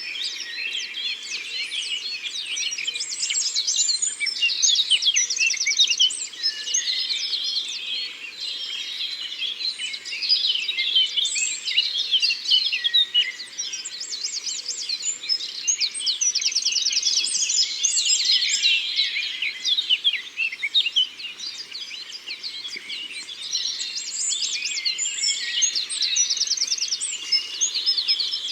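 Forest bird chorus: many birds chirping and singing over one another. One of them repeats a fast, high trill about every ten seconds.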